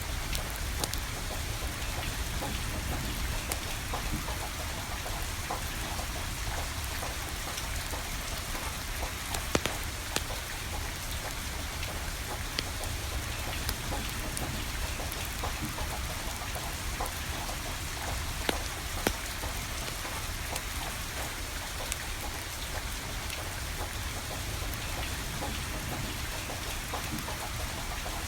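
Steady rain with a low rumble underneath, and a few sharp pops of burning firewood crackling.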